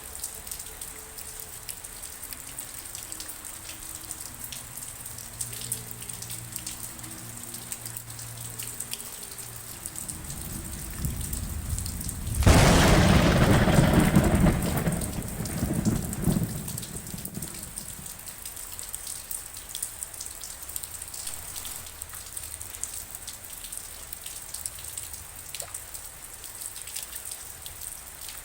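Steady heavy rain with many fine drop ticks. About ten seconds in, a roll of thunder swells to a loud crack and rumble, then fades over the next few seconds.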